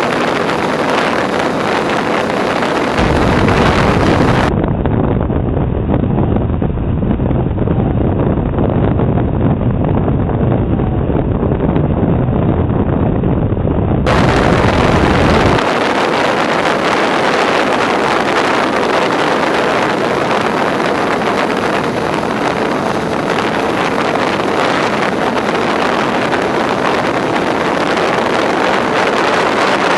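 Wind rushing over the onboard camera's microphone on a Twinstar II RC plane in flight, with a faint steady whine from its twin electric motors. A heavier low buffeting comes in about three seconds in and eases off about halfway through.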